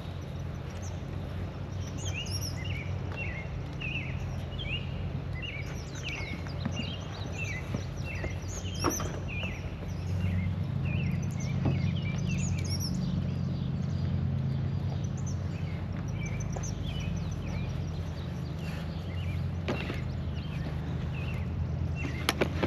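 A songbird calling a rapid run of short chirps through the first half, over a steady low hum, with a few light knocks scattered later on.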